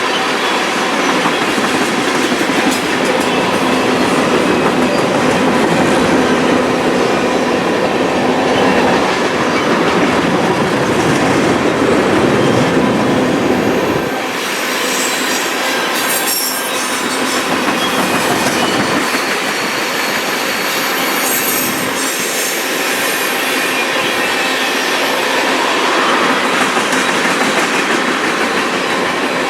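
Railroad train passing, its wheels rolling and clicking over the rails. About halfway through, the low rumble drops and high wheel squeal comes in.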